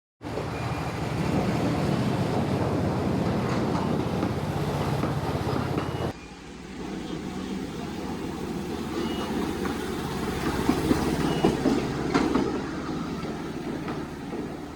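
Wulai tourist trolley's small narrow-gauge cars running along the rails with a steady rumble and clatter of wheels on track. About six seconds in, the sound cuts abruptly to a quieter, thinner rumble.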